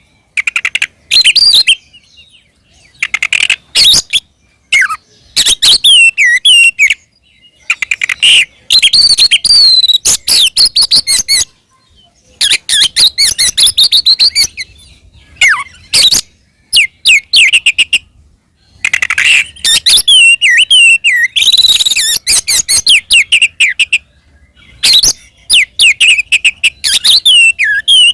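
Oriental magpie-robin (kacer) singing loudly in bursts of fast, varied whistles and trills, each phrase a second or two long with short pauses between. This is its full 'ngeplong' fighting song, the kind used to provoke rival magpie-robins into answering.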